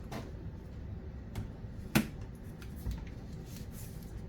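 A few light clicks and taps of things being handled, the sharpest single click about two seconds in and a dull low knock about a second later.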